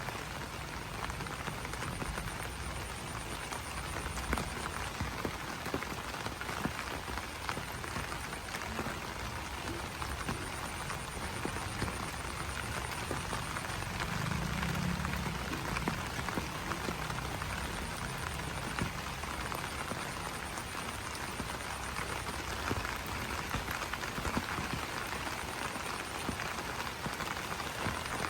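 Steady rain falling on banana leaves: a dense, even patter of drops. A faint, high, pulsed trill comes and goes in the background.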